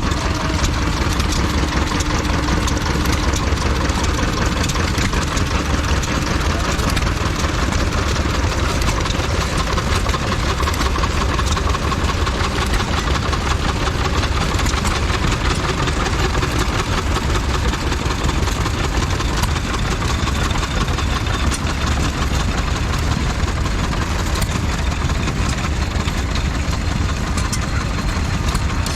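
Vintage stationary engine running steadily at idle, with a fast, even beat.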